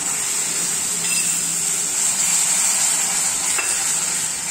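Thin yogurt hitting hot ghee-fried masala in a kadhai, sizzling steadily as it is stirred in briskly with a wooden spatula. It is being stirred constantly so the yogurt does not split.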